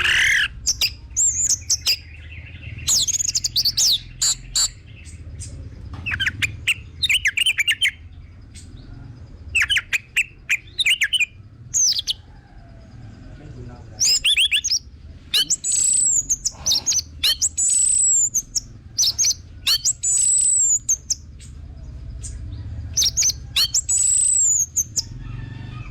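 Orange-headed thrush singing: loud, varied phrases of clear whistles with quick rattling notes and high slurred calls, in short bursts with pauses between them, over a low steady hum.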